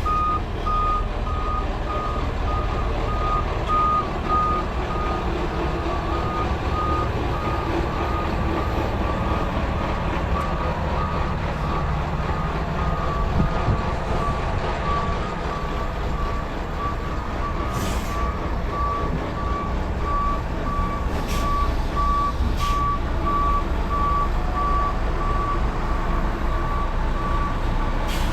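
A vehicle's backup alarm beeping steadily at one pitch, growing louder in the second half, over the low steady running of a truck engine.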